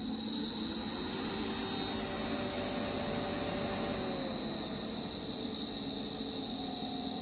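Pool pump running with a steady high-pitched squeal, over lower tones that waver and slide slightly in pitch.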